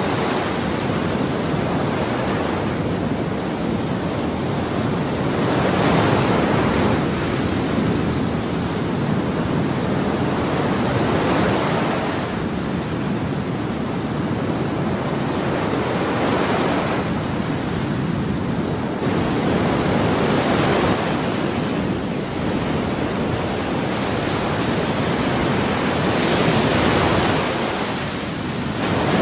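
Ocean waves washing on a shore: a continuous rush of surf that swells louder every five seconds or so as each wave breaks.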